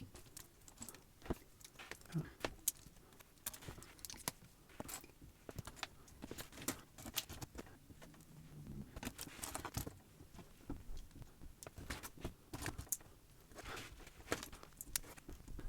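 Small hard-plastic building bricks clicking and rattling as they are handled, sorted and pressed together, many short sharp clicks in irregular runs.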